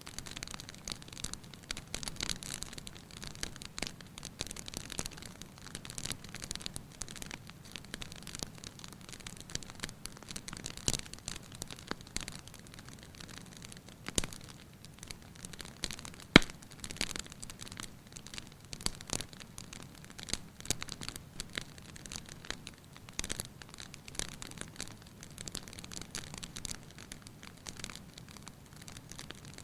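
Wood fire crackling in a fireplace: a steady stream of small snaps, with one sharper pop about sixteen seconds in.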